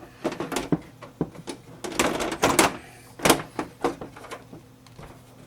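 Irregular clicks, knocks and rustling from handling a desktop computer case and its cables, with one sharper knock past the middle.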